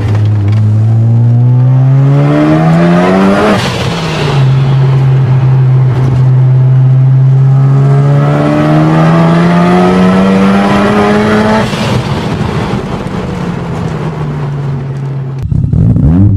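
Mazda RX-7 FD3S's twin-turbo 13B rotary engine with the exhaust deleted, accelerating. The revs climb for about three seconds and drop at a gear change, hold steady for a few seconds, then climb again until about twelve seconds in, when the throttle comes off and the revs fall. Near the end it cuts abruptly to a different engine note.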